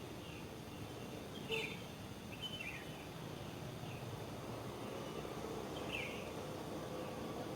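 Steady wind noise with a small bird chirping now and then: about five short, falling chirps, the clearest about one and a half, two and a half and six seconds in.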